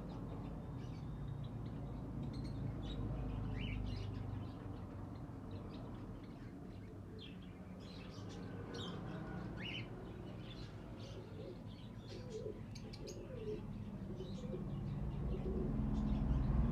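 Aviary of mixed birds: many small birds chirping constantly, with pigeons cooing in a cluster of low calls in the second half.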